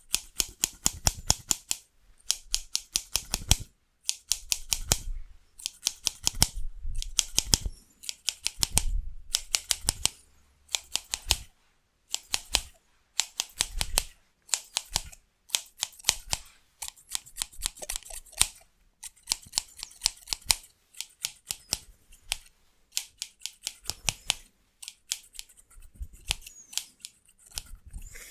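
Haircut scissors snipping fast, close to the microphone, in quick runs of rapid cuts broken by short pauses, with a low rumble under some of the runs.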